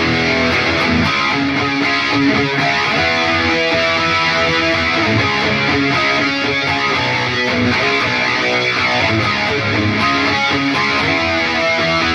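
Electric guitar played through an Atomic AmpliFire modeling pedal and heard from cheap computer speakers: continuous noodling with many notes, mildly distorted.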